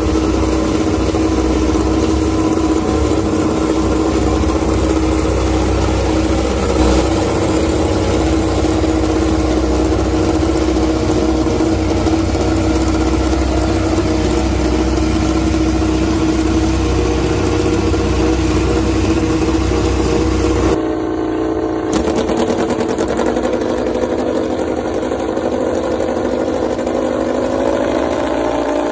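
MotoGP racing motorcycle engine idling steadily at a high, even pitch, with a slight rise in pitch near the end.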